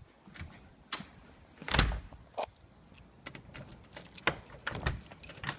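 Clicks, knocks and light rattling of camera gear being handled and packed up, with one louder knock a little under two seconds in and a busier clatter near the end.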